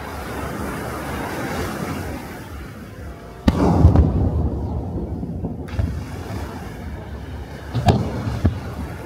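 Aerial firework shell bursting with a loud boom about three and a half seconds in, its rumble trailing off over the next few seconds. Two smaller bangs follow near the end, over a steady background rush.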